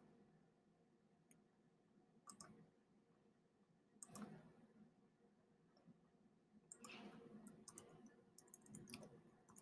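Faint computer mouse clicks: a single click about two seconds in, another about four seconds in, then a quick run of clicks in the last few seconds.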